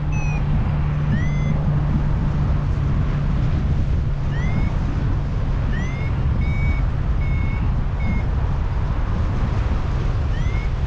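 A paragliding variometer beeping: short tones, several gliding up in pitch, then a quick run of three steady beeps about the middle. These are the climb tones that signal the glider rising in lift. Strong wind rushes on the microphone throughout.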